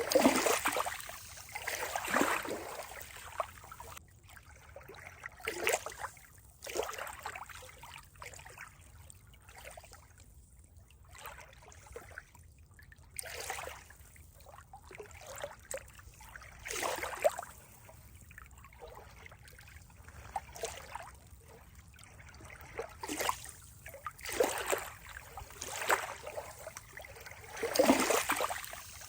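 Water trickling and splashing, with irregular surges every second or two over a steady low hiss.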